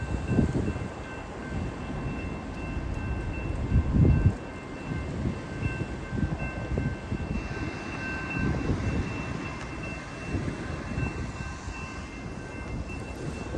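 Freight train cars rolling past: a low rumble with irregular heavier knocks, and a thin, evenly pulsing high tone throughout.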